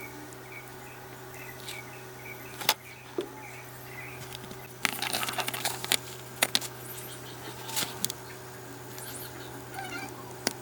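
Small metal parts clinking and rattling: a few sharp clicks, with a second-long burst of clattering about five seconds in, over a steady low hum.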